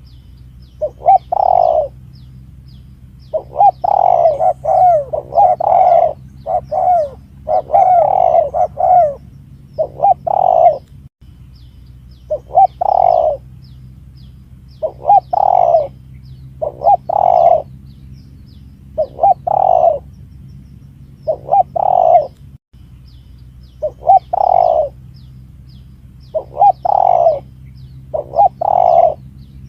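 Spotted dove (tekukur) cooing, a recorded lure call played over and over: short phrases of coos with brief pauses between them, over a steady low hum.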